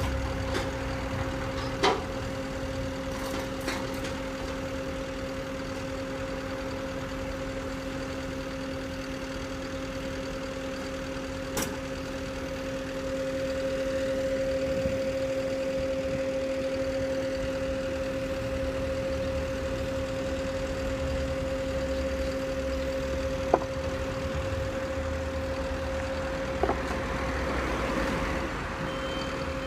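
Tow truck's engine idling with a steady hum, and a few sharp knocks or clanks now and then.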